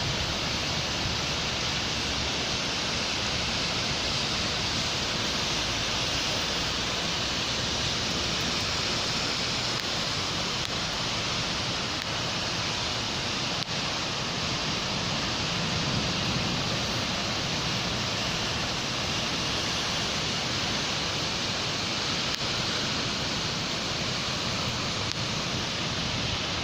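Steady rain falling in a city, an even hiss with a low rumble beneath that swells slightly about two-thirds of the way through.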